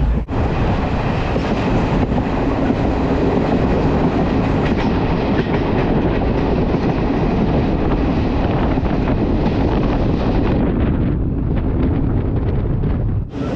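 Express passenger train running at speed, a steady rumble and rattle of coach wheels on the track.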